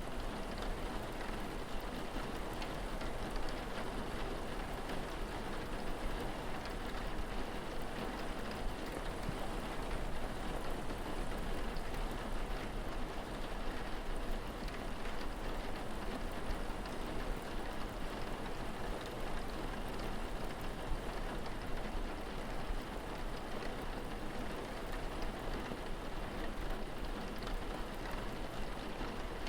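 Steady rain falling, an even, unbroken patter of drops.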